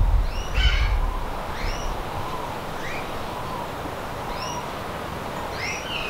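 Background aviary birds calling: a short chirp that rises and falls, repeated about once a second, with a low rumble in the first second.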